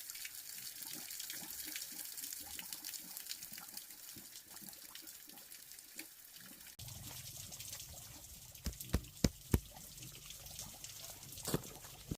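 Water running and trickling for about seven seconds. After an abrupt change, a few sharp knocks, three close together, then another pair near the end.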